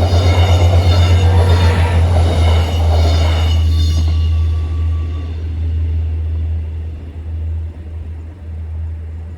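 GTW diesel train passing over a level crossing, its diesel engine humming and its wheels clicking rapidly over the rails, while the crossing's warning bells ring. About four seconds in, the bells and wheel noise drop away and the engine hum fades as the train moves off.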